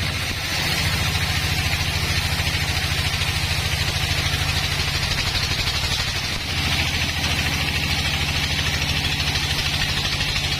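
An engine running steadily at idle, with a fast, even pulse and a brief dip about six seconds in.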